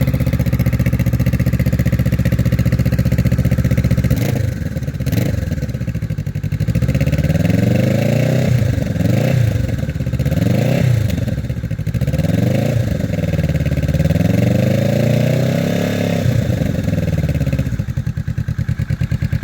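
2019 Kawasaki Vulcan S parallel-twin through a Musarri Street Series GP exhaust with its quiet baffle fitted, idling steadily, then revved up and down several times to about 4,000 rpm from about four seconds in, and settling back to idle near the end.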